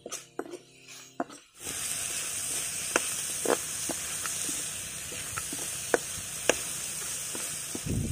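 Snake meat stir-frying in a wok: a steady sizzle with a few sharp clicks of the metal ladle against the pan. Background music ends about a second and a half in, just before the sizzle comes up.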